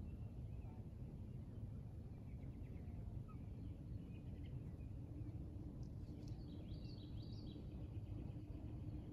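Faint high bird chirps and twitters in two short runs, over a steady low outdoor rumble; a faint steady hum comes in a few seconds in.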